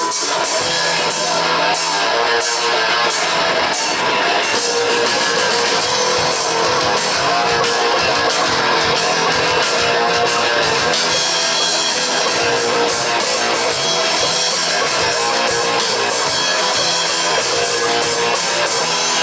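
A rock band playing live: guitar strumming over a drum kit, with no singing.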